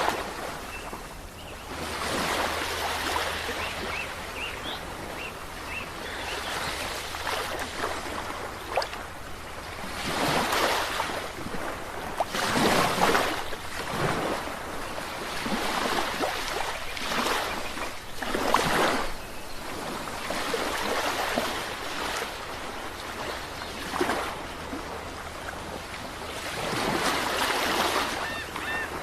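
Sea waves breaking and washing, swelling and fading in surges every few seconds.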